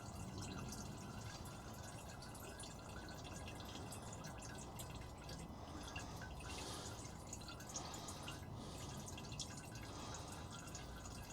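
Diesel dripping and trickling faintly from a disconnected fuel hose, with small scattered drip ticks.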